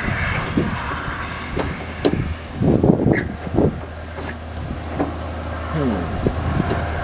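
Scattered clicks and knocks of hand tools and metal parts being worked inside a truck door, with a busier stretch of knocking and rattling about three seconds in, over a steady low hum.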